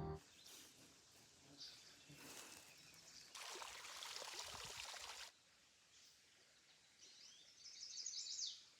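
Faint outdoor ambience, close to silence: a soft noisy rush for about two seconds midway, then a short run of high bird chirps near the end.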